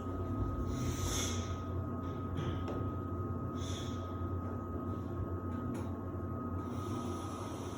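Samsung WD70T4047CE washer-dryer running in its drying phase: a steady low hum with a thin constant whine over it, and a few brief soft hisses, about a second and nearly four seconds in.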